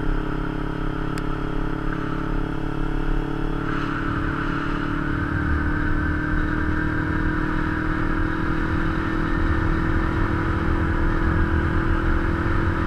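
Kawasaki Ninja 250's parallel-twin engine running at a steady cruise, heard from a mount on the bike with wind rush. The engine grows louder about four seconds in.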